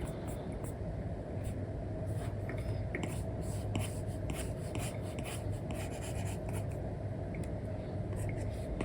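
Apple Pencil 2 with an Elecom nib scratching across a paper-like matte screen film on an iPad in many short, quick strokes, over a steady low hum.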